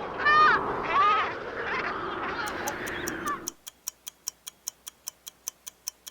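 Penguin calling in a series of harsh, honking brays, each under a second, stopping about three and a half seconds in. A clock-like countdown timer ticks about four times a second through the second half.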